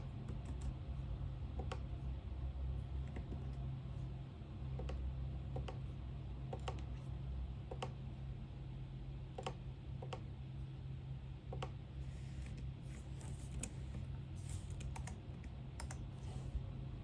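Irregular keystrokes on a computer keyboard, single clicks and short runs, over a steady low hum of room noise. Between about twelve and sixteen seconds in, a softer high rustling joins the clicks.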